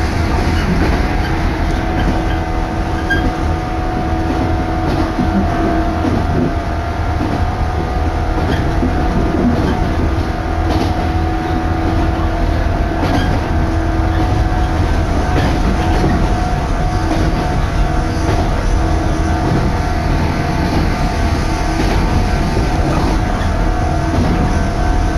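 Inside a Sanyo Line electric train car running at speed: a steady rumble of the wheels and car body, with a steady hum running through it.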